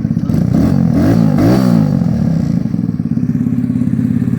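Kawasaki Z125 Pro's 125 cc single-cylinder four-stroke engine, running through an aftermarket exhaust pipe with a foam intake, blipped up and down several times, then settling to a steady idle about two seconds in.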